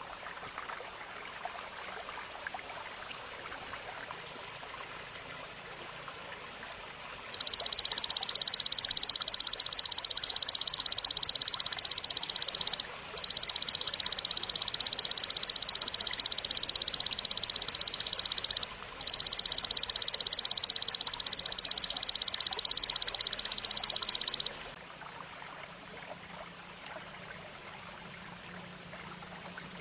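Grasshopper (belalang) stridulating: a loud, continuous, high buzzing trill that starts several seconds in, breaks off twice briefly and stops a few seconds before the end, with only a faint hiss around it.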